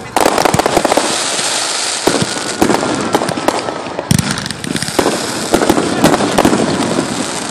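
Fireworks going off in rapid succession: a string of sharp bangs from aerial bursts over continuous crackling.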